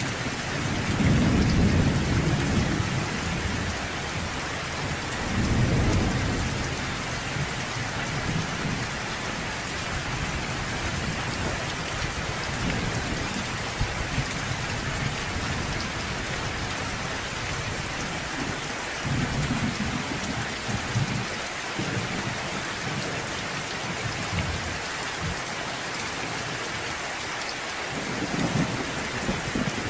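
Steady rain with thunder rumbling low several times: a long roll about a second in, another around six seconds, softer ones mid-way and a fresh roll near the end.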